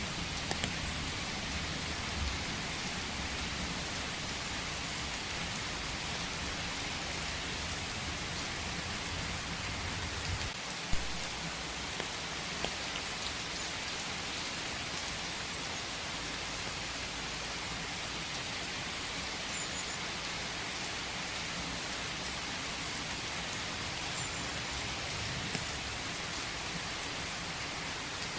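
Steady rain falling, an even hiss with scattered louder drop taps and one sharp tap about eleven seconds in.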